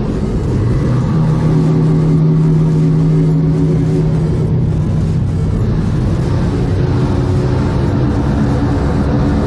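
Vehicle engine running at a steady speed while travelling, its hum holding an even pitch that shifts slightly about halfway through.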